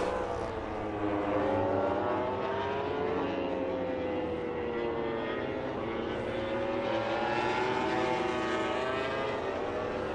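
Racing motorcycle engines running at high revs, their pitch sliding down and back up over several seconds as the bikes pass and change speed.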